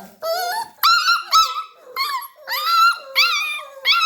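Puppies whining and yelping: a string of short, high-pitched cries, many rising and then falling in pitch, one after another with brief gaps.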